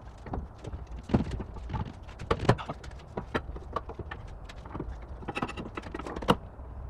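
Irregular knocks and clicks of hand tools and parts being handled during reassembly work under the car, several in quick succession at times.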